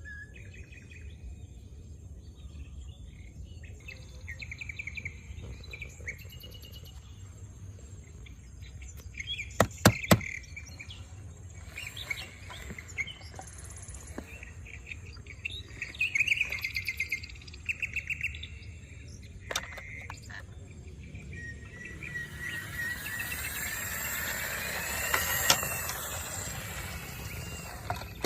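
Small birds chirping and trilling in short phrases, with a couple of sharp clicks about ten seconds in and a busier stretch of sweeping calls near the end.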